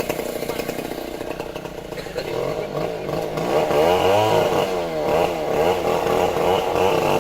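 Stihl chainsaw's two-stroke engine running. It holds steady at first, then from about three seconds in its speed rises and falls again and again as it is worked through the wood of the tree.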